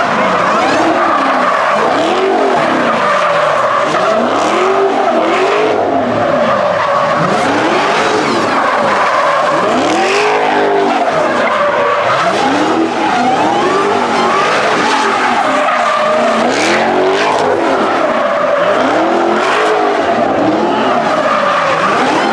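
A car's tires squealing in one long, unbroken skid. The engine's pitch rises and falls over and over, about once a second, as the car is driven hard in a spin.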